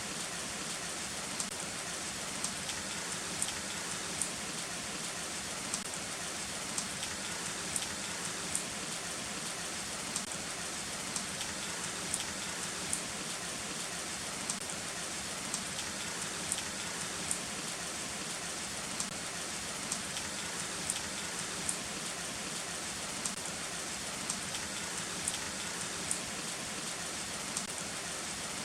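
Heavy rain falling steadily, with single drops striking a near surface in sharp ticks about once or twice a second.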